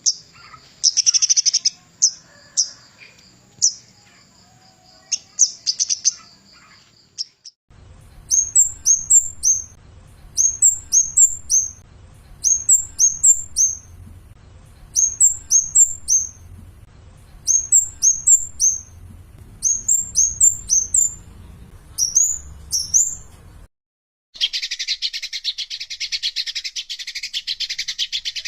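Kemade gunung bird calling in high-pitched chips, then repeated groups of short down-slurred whistles about every two seconds. After an abrupt cut comes a long, continuous buzzy chatter.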